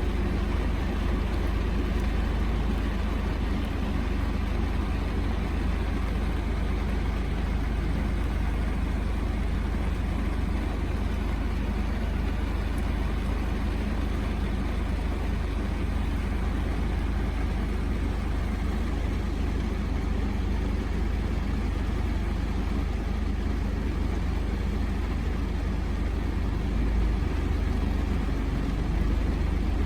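Heavy rain falling: a steady, dense hiss over a constant deep rumble.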